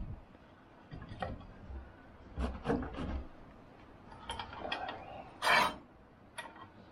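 Firewood being handled and loaded into a freshly lit wood fire: scattered wooden knocks and clicks with brief rubbing scrapes, and one loud short scrape about five and a half seconds in.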